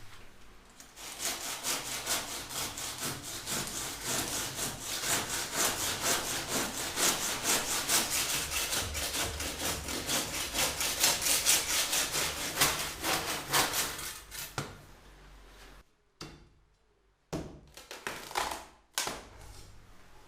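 Hand saw cutting through a wooden door threshold, with steady back-and-forth strokes for about fourteen seconds before stopping. A few short knocks follow near the end.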